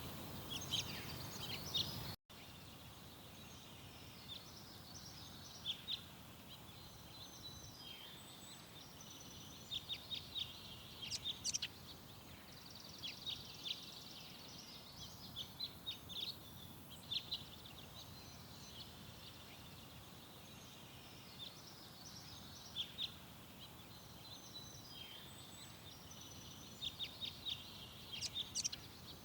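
Small garden birds chirping, short high calls coming in clusters over a faint outdoor background. About two seconds in there is an abrupt cut, after which the background is quieter.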